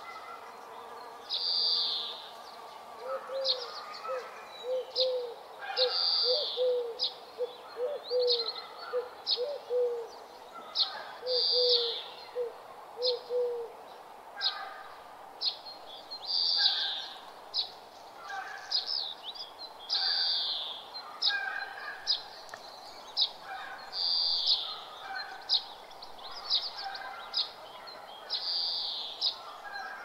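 Morning birdsong from several birds: a bright phrase repeated every few seconds among scattered short chirps, with a run of low, evenly spaced notes through the first half.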